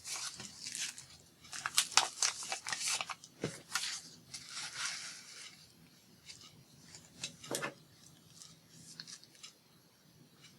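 Sheets of craft paper being handled, with crisp rustles and clicks, busiest in the first half and then a few scattered taps.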